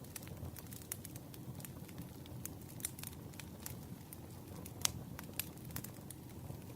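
Campfire crackling: irregular sharp pops and snaps of burning wood over a low, steady rumble of the flames, with one louder pop about five seconds in.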